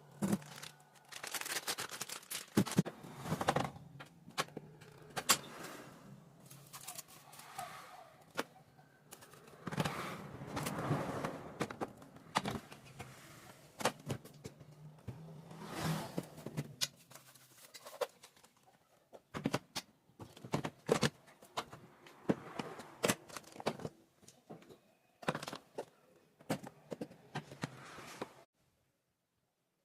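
Irregular clacks and knocks of containers and fridge parts being handled and set down while a refrigerator is cleaned out and refilled, over a low steady hum that stops a bit past halfway.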